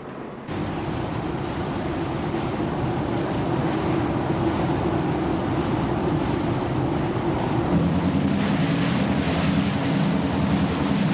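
Patrol boat under way at high revs: steady engine hum under a loud rush of wind and water, cutting in abruptly about half a second in, with the engine note shifting slightly near the end.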